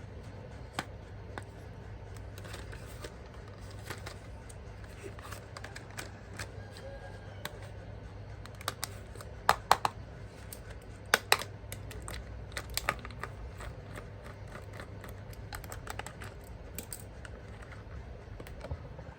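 Hands handling plastic toy parts and packaging: scattered light clicks and taps, with a few sharper, louder clicks near the middle, over a steady low hum.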